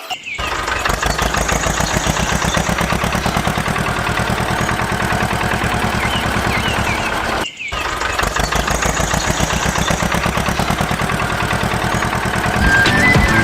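Engine running steadily with a fast, even chugging beat. It cuts out for a moment about halfway through and picks up again.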